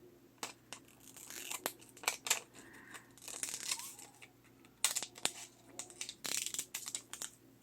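Scissors snipping through sticky craft tape and paper, with scattered small clicks and crinkling as the materials are handled.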